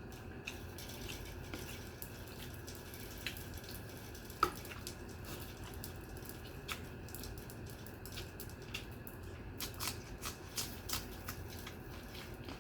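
Close-miked eating sounds of rice and curry: scattered small wet clicks and smacks, a louder one about four seconds in and a quick run of them near the end, over a steady low hum.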